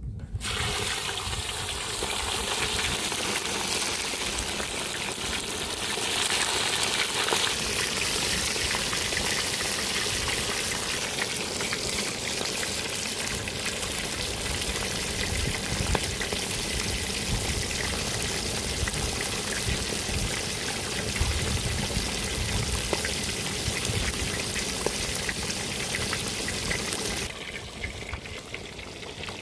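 Tilapia frying in hot oil: a steady, dense sizzle that eases a little near the end.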